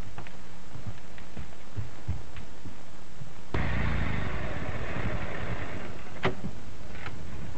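A few faint footstep knocks, then an old motor car's engine running that starts suddenly about halfway through and ends with a sharp click about two seconds later. The soundtrack's hiss and hum run underneath.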